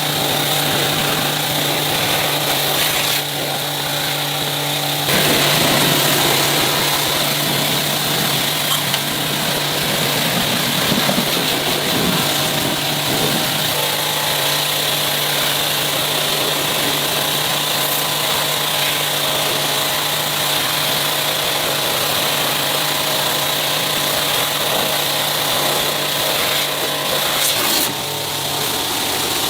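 A power tool running steadily, a constant hum under continuous harsh noise, shifting in level a few seconds in and again near the end.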